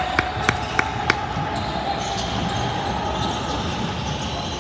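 Basketball being dribbled on a gym floor, four quick bounces in the first second, then steady hubbub of a gym.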